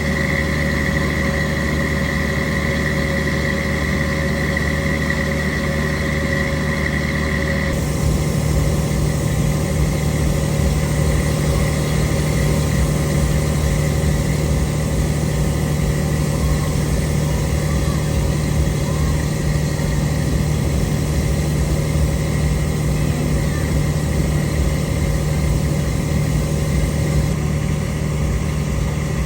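A steady engine-like drone with a high whine that drops out about eight seconds in, after which the low hum runs on slightly rougher.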